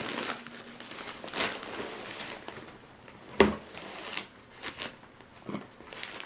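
Packaging being handled: a plastic bag crinkling and rustling, with a few sharp knocks, the loudest about three and a half seconds in.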